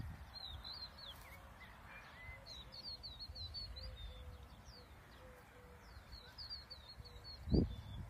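Small birds chirping in quick runs of short, high notes over a low outdoor rumble, with one dull thump near the end.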